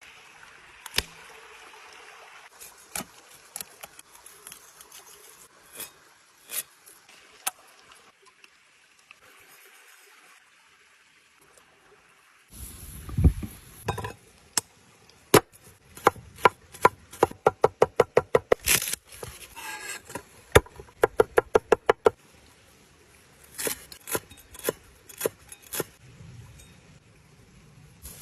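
Knife chopping on a wooden board in a quick, even run of strokes, among scattered knocks and clinks of cooking utensils.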